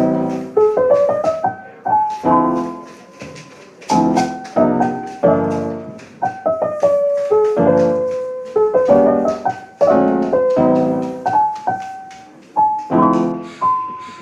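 Background music: a piano playing chords and a light melody, each note struck and then fading.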